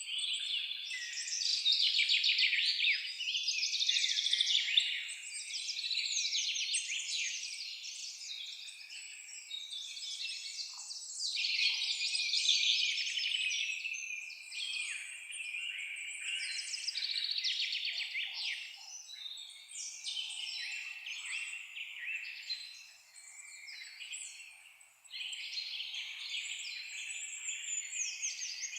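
Several songbirds singing at once in a continuous chorus of rapid high trills and chirps, with a brief lull about three quarters of the way through.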